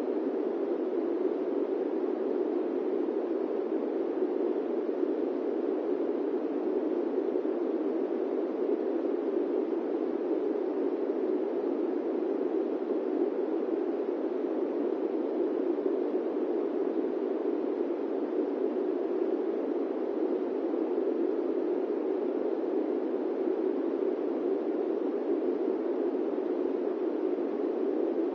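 Steady airplane-cabin white noise: an even, unchanging rush centred low in pitch, with no tones or events in it.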